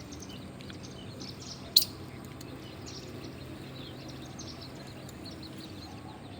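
Birds chirping, many short high twitters throughout, with one sharp click a little under two seconds in, over a steady low hum.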